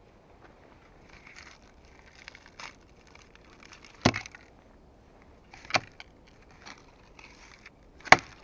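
Three sharp knocks of a hand tool striking wood, about two seconds apart, with quieter scraping and rustling of wood being handled in between.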